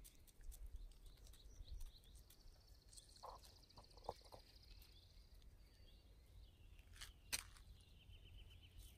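Near silence outdoors: faint fast bird trills of quickly repeated notes, one in the middle and another near the end, over a low wind rumble, with a couple of soft clicks late on.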